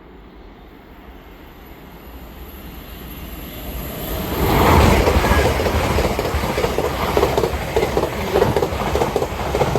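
LNER express passenger train approaching and passing at speed. The noise builds over about four seconds into a loud, steady rush with a regular clatter of wheels over the rails.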